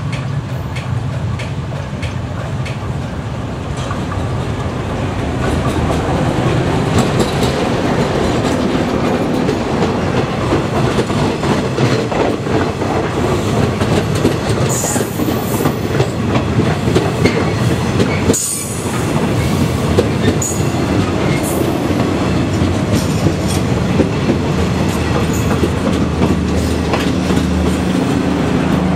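KTM express train passing at close range behind an ALCO-type YDM4 diesel locomotive: a steady rumble with a rhythmic clickety-clack of coach wheels over the rail joints, growing louder a few seconds in, with a few brief high wheel squeals midway.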